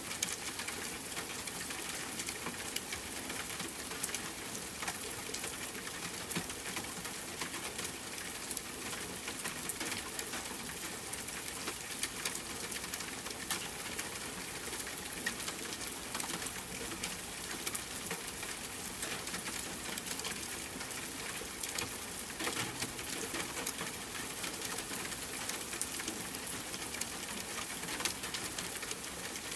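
Steady rain, an even hiss dotted with many small, sharp drop ticks.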